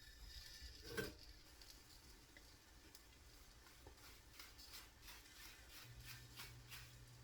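Faint crackling of an omelette cooking in a pan, with one light knock about a second in. A low steady hum starts near the end.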